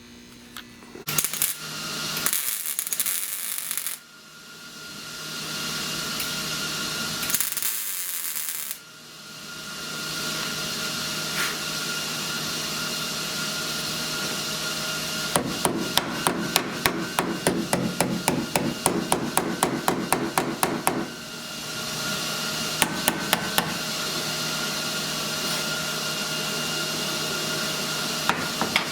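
Two short bursts of tack welding crackle on sheet-metal body panels, over a steady electrical hum. About halfway through come several seconds of quick, sharp metal strikes, around five a second, with a few more strikes later.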